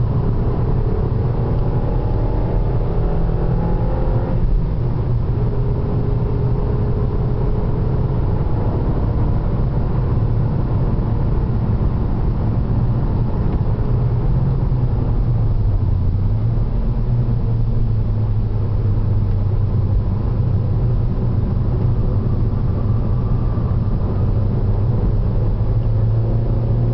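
Seat León 1.8 TSI turbocharged four-cylinder petrol engine under load during a track lap, with tyre and road rumble inside the cabin. The engine note rises in the first few seconds and dips briefly about two-thirds of the way through, then holds steady.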